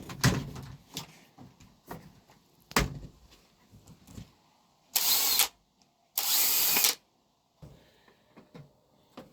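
Two short bursts from a power tool, each under a second, about five and six seconds in, preceded by scattered knocks and clatter of hands-on work.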